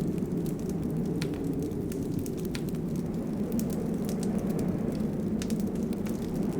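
Wood fire burning in a fireplace: a steady low rush of flames with sharp crackles and pops scattered irregularly, a few each second.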